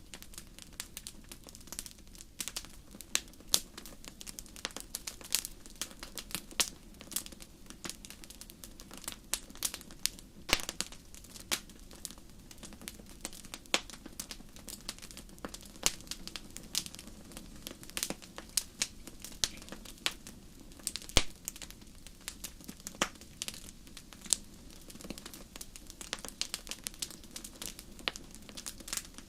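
Wood fire crackling in a fireplace: irregular sharp pops and snaps, several a second, over a low steady rush of the burning fire.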